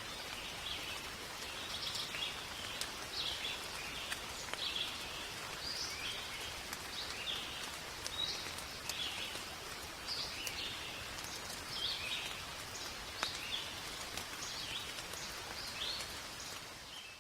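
Steady rain falling in a forest, with scattered drops tapping, while a bird repeats short chirping calls about once a second. The whole ambience cuts off abruptly at the very end.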